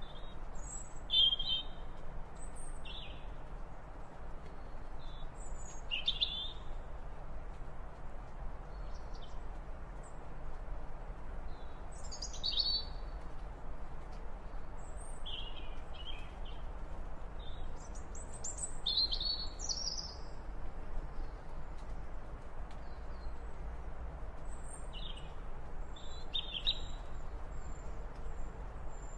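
Birds chirping: short, high calls scattered every few seconds, over a steady low rumble of background noise.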